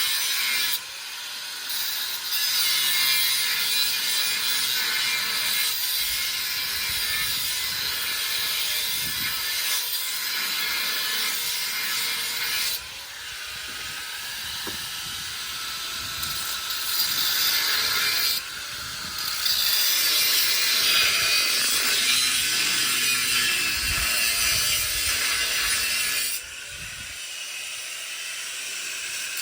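Steady hissing noise of a tool working material during the camper build, in several stretches that change abruptly every few seconds.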